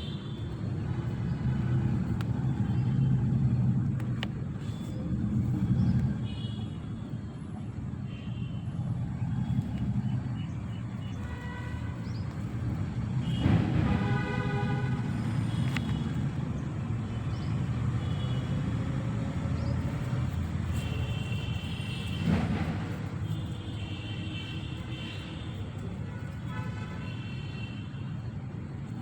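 Road traffic: a steady low rumble of passing vehicles, with short pitched toots like car horns now and then.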